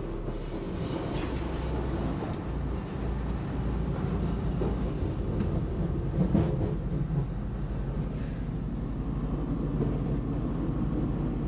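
Cabin noise of a DSB IC3 diesel multiple unit under way: a steady low rumble of the underfloor engine and the wheels on the track, with a brief louder clatter about six seconds in.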